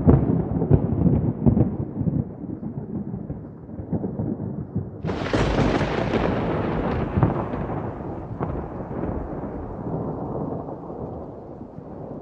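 Thunderstorm with rain. Thunder rumbles at first, then a sharp, close thunderclap cracks about five seconds in and rolls away, fading slowly toward the end.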